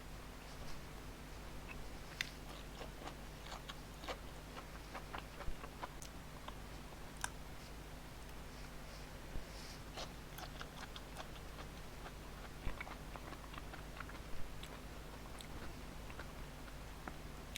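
A person eating close to the microphone: irregular small clicks and smacks of chewing and biting over a faint steady low hum.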